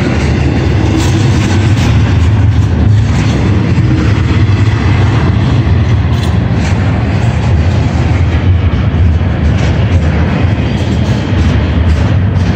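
Freight train rolling through a grade crossing: a loud, steady low rumble of wheels and cars on the rails, with faint irregular clicks.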